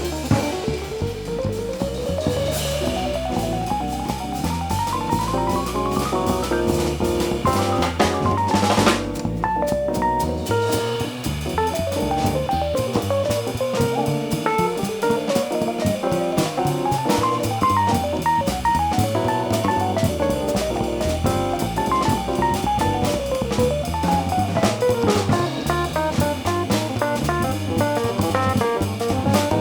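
Live jazz combo playing with drum kit, a low bass line and fast runs of notes rising and falling, and a loud cymbal-like crash about nine seconds in.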